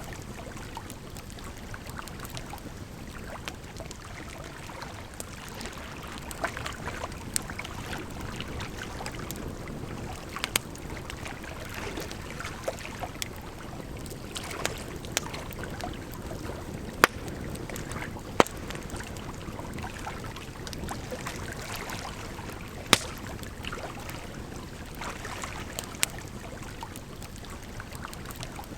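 Wood campfire crackling, with sharp pops at irregular intervals and a few louder pops past the middle, over a steady rush of flowing water.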